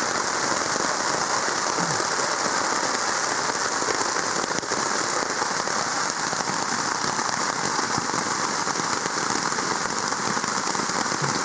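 Rain falling steadily, an even hiss of many drops with no let-up.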